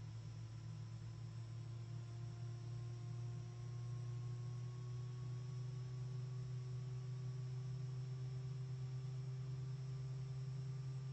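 A faint, steady low hum with a few thin higher tones that slowly rise in pitch.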